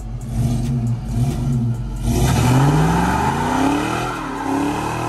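LS-swapped Chevy V8 idling unevenly, then revved. Starting about a second and a half in, its pitch climbs for about two seconds, peaks, and falls back down near the end.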